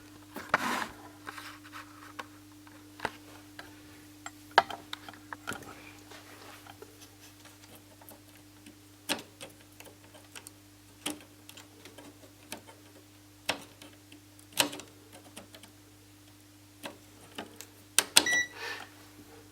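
Scattered small clicks and taps of multimeter probes and tools being handled on a TV circuit board, over a steady low hum. Near the end a short beep from the multimeter's continuity tester sounds across a shorted capacitor.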